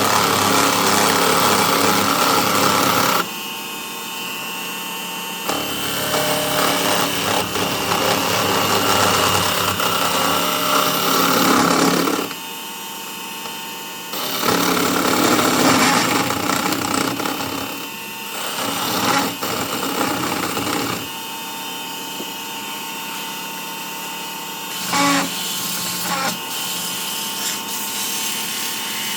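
Small wood lathe running with a steady motor whine, while a tool works the spinning wood in three long rough scraping bouts, with quieter spells of just the running lathe between them. There is one short knock near the end.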